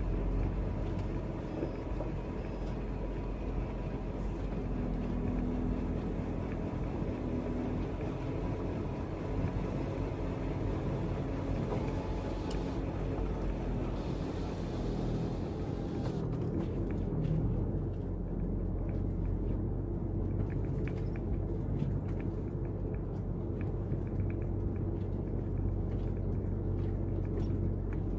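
Engine of an Iveco gas truck running steadily under way, a low even hum. A higher hiss over it fades out about halfway through.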